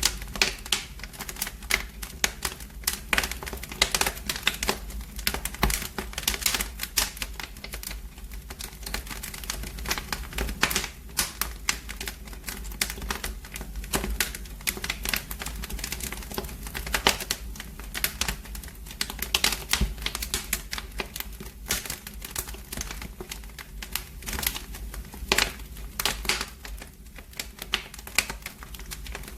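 Wood fire in a fireplace crackling, with rapid irregular snaps and pops over a low steady rumble of the burning.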